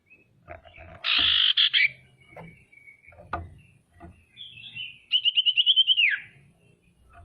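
Female common iora (sirtu, cipoh) calling: a harsh, chattering burst about a second in, then a quick trill of about ten notes near the end that ends in a falling slur.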